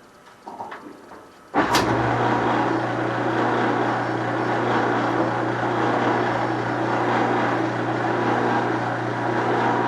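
Dryer of a Frigidaire FEX831CS0 washer/dryer combo switching on test-run after repair: a few light knocks, then a sharp click about a second and a half in as the motor starts. It then runs steadily, a motor hum under the rumble of the turning drum, showing the drum has good motion again.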